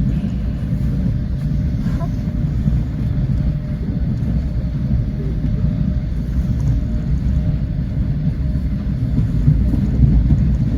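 Passenger train running at speed, heard from inside the carriage: a steady low rumble of the wheels and running gear on the track.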